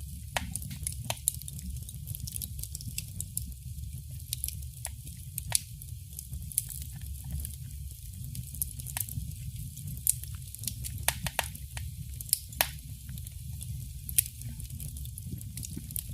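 Wood fire in a fireplace crackling, with irregular sharp pops scattered throughout over a steady low rumble.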